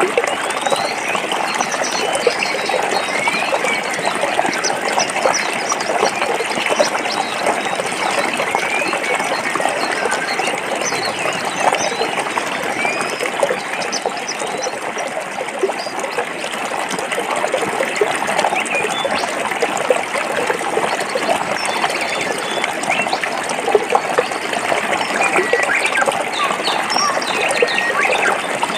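A forest stream flowing over rocks: steady babbling water, dense with small splashes.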